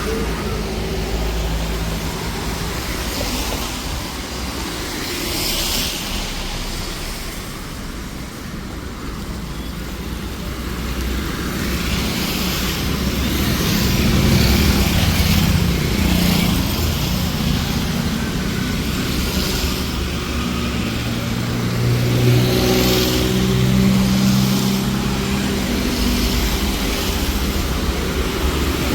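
City street traffic: cars and other motor vehicles running past on the road, a steady din of engines and tyres that swells about halfway through as more engine noise builds up.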